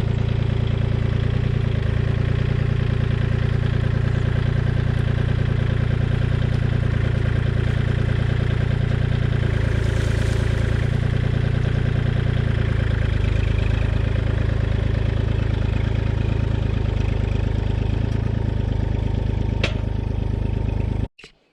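Compact Kubota tractor's diesel engine running steadily, with a slight change in pitch around the middle. It cuts off abruptly just before the end.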